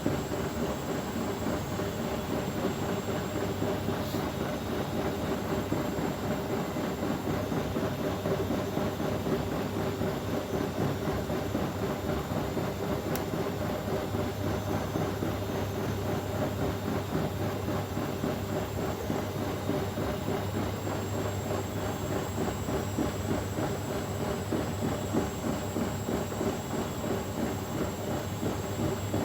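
Bosch Maxx WFL 248Y front-loading washing machine running, a steady motor hum over the rumble of the drum.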